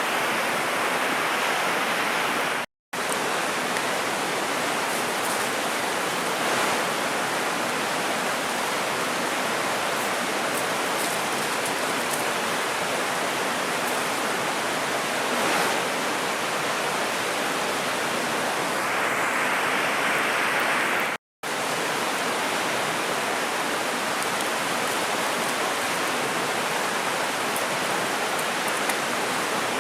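Mountain river rushing steadily over its rocky bed, a dense even hiss of flowing water. It cuts out to silence twice for a split second.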